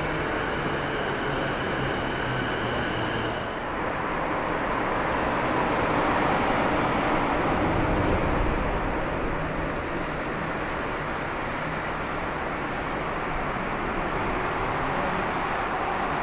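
A train running along the tracks through the station: a steady rumble and rush of wheels on rail that swells a little about halfway through and eases off again.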